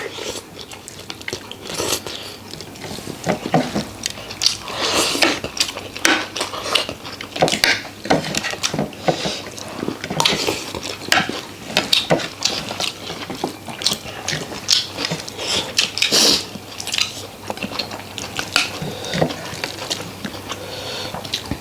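Cutlery clinking and scraping against a plate as someone eats a meal of rice and curry, in many irregular short clicks and scrapes.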